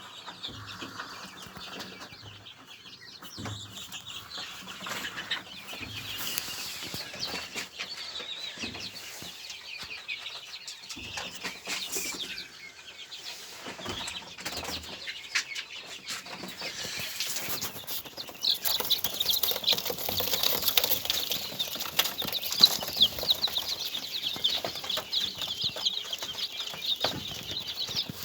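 Birds fluttering and shuffling about, with many short rustles and taps, and from about two-thirds of the way in a dense, high chirping from many birds at once that grows louder.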